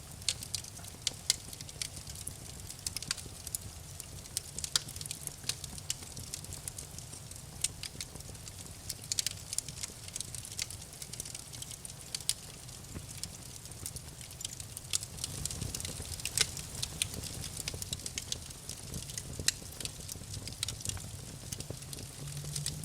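Fireplace wood fire crackling: frequent irregular sharp pops and snaps over a steady low rumble.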